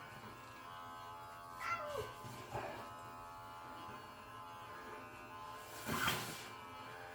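Electric pet hair clippers running steadily during a cat's home grooming. About two seconds in the cat gives a meow that falls in pitch, and a short loud burst of noise comes near the end.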